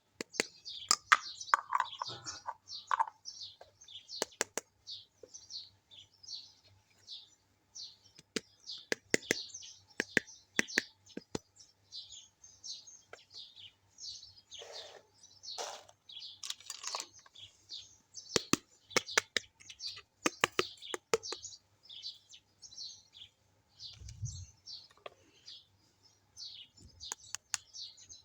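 Sharp clicks and taps of small plastic toy kitchen pieces being handled, over steady chirping of birds in the background.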